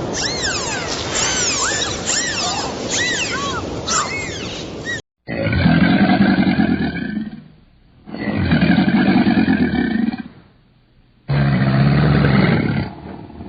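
Many overlapping high, arching chirping calls for about five seconds. Then, after a sudden cut, a large animal gives three long, deep roaring calls with short pauses between them.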